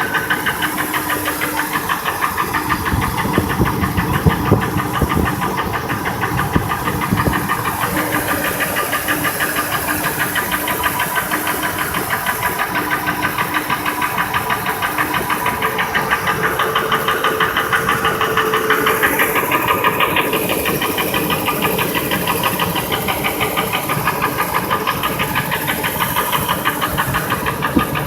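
2002 Ford F-150's 5.4L two-valve Triton V8 running with a steady, rhythmic knock. Unplugging each injector and each coil in turn made no difference to how loud the knock is.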